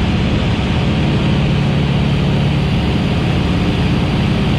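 Van's RV-8 light aircraft's piston engine and propeller droning steadily in flight, heard from inside the cockpit.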